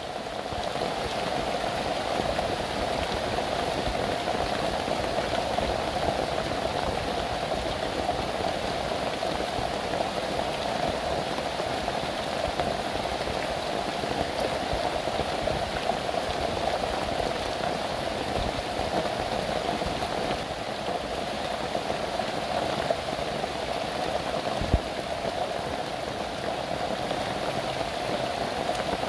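Heavy rain pouring steadily on a grass-thatched roof and the surrounding forest leaves, with a couple of louder single drops near the end.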